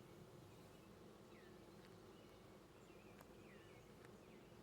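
A colony of honeybees in an open Layens hive humming faintly and steadily.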